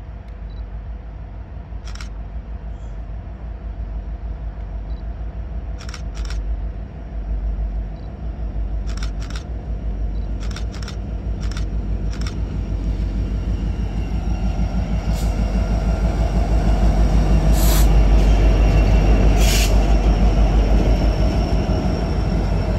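Norfolk Southern diesel locomotives approaching and passing at the head of a steel coil train, the low engine and rail rumble building steadily and loudest as the lead locomotive comes alongside near the end. Several sharp clicks fall in the first half and short bursts of hiss in the second.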